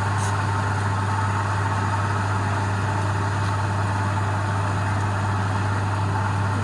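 Wood lathe running steadily, a constant low motor hum with an even hiss over it.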